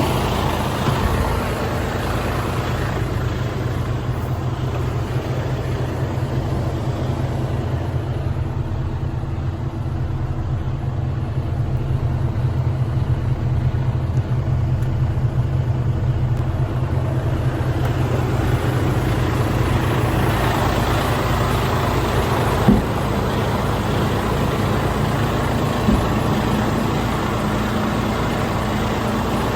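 Mercedes-Benz Arocs 2648 tipper truck's six-cylinder diesel engine idling steadily, with two brief knocks in the latter part.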